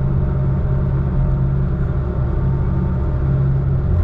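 Log truck's diesel engine running steadily under way, a deep even rumble heard from inside the cab.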